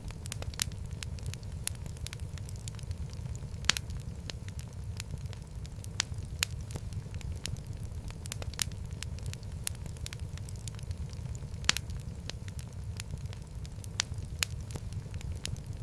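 Wood fire burning in a fireplace: a steady low rumble of flames with frequent, irregular sharp crackles and pops, a few standing out louder than the rest.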